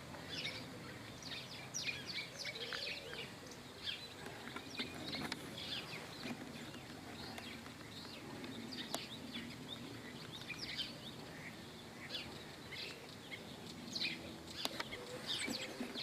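Small birds chirping and calling, many short quick notes one after another over a faint background murmur.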